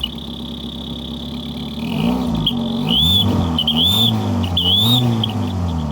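Toyota car engine running with a fake turbo whistle pushed into its exhaust tailpipe, giving a steady high whistle over the idle. About two seconds in, the engine is revved about three times, once a second, and the whistle rises and falls in pitch with each rev; it sounds just like someone's put a whistle on the car.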